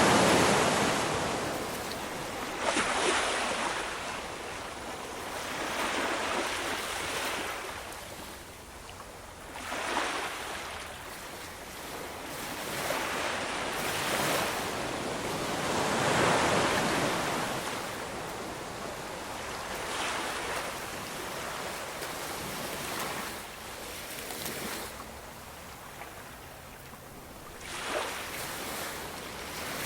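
Ocean waves breaking and washing on a shore, each surge swelling and fading every few seconds, with a louder break at the start and again about halfway through.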